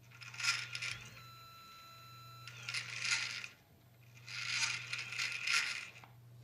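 Sirius/HEQ5 equatorial telescope mount's stepper motors and drive gears slewing, in three bursts of rough mechanical noise with a steady whine between them.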